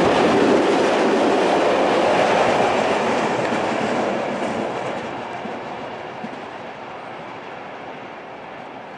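Freight train of covered hopper wagons rolling past on the rails, the wagons' wheels running loud at first, then fading steadily from about four seconds in as the tail of the train moves away.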